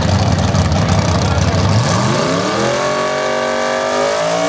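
Drag-racing car engine rumbling heavily at the start line, then launching about two seconds in: its pitch climbs steeply for about a second, then holds and creeps slowly upward as the car pulls down the strip.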